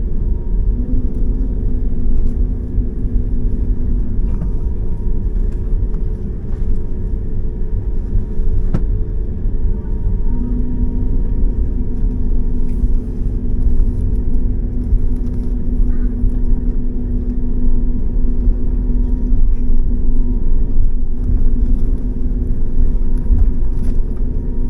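Interior noise of a moving vehicle: a steady low rumble with droning engine hum tones, one of which fades out and returns several times.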